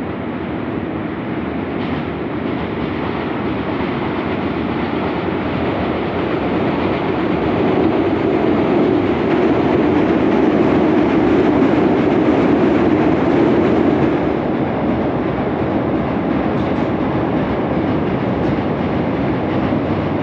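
A train running past: a steady rumble of wheels on rails that swells to its loudest in the middle, then eases off somewhat.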